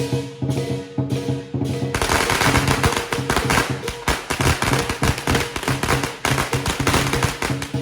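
A string of firecrackers going off in a rapid, unbroken crackle that starts about two seconds in and stops near the end, over percussion music from the lion-dance drum band.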